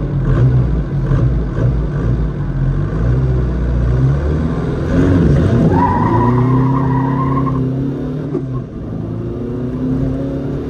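Car engine running and revving, its pitch rising around four to six seconds in, with a steady high whine for about a second and a half just past the middle.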